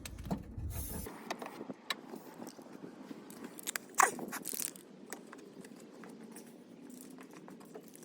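Scattered scrapes and clicks of things being handled, with one louder knock and a short hiss about four seconds in, then quieter handling.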